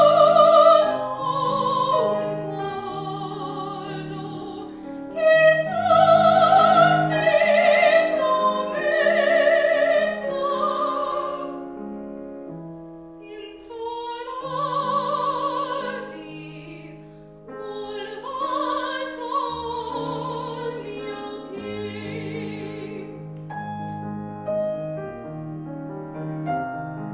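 Classical operatic singing with strong vibrato, accompanied by piano, in several long sung phrases with short breaths between them. Near the end the voice fades and the piano carries on.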